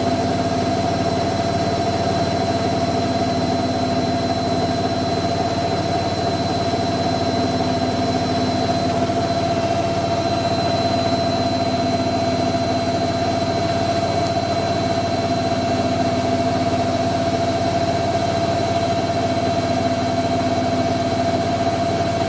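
Hoover Electron 1100 washing machine running steadily on a fast spin: an even motor whine over a low mechanical hum, with no change in speed.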